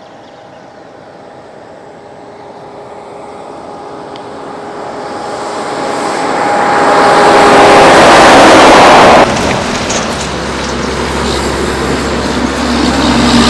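A heavy truck approaching and passing close on the road, its engine and tyre noise growing steadily louder to a peak, then cutting off abruptly about nine seconds in. A low engine rumble from another truck follows and grows louder near the end.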